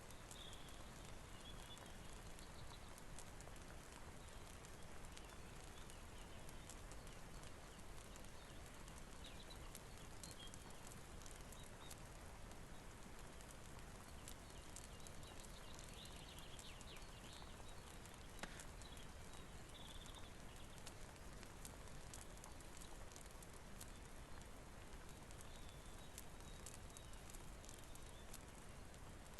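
Faint steady rain with the scattered crackle and pops of a wood fire, and a few short high squeaks here and there.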